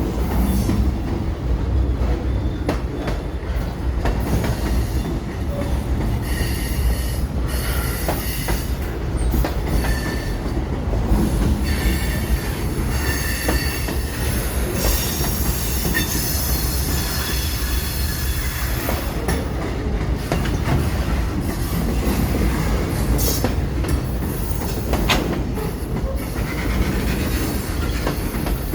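Train rolling past steadily: a continuous heavy rumble of wheels on rail, with high-pitched wheel squeal coming and going, strongest through the middle, and occasional clicks from the rail joints.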